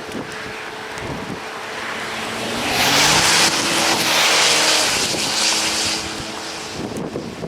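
A car passing close by: its tyre hiss and engine swell for a few seconds, then fade away.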